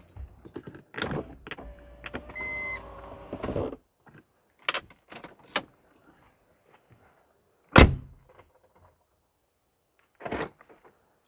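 Clicks and rattles inside a car, then an electric window motor running for about two seconds. A single loud thump comes about eight seconds in.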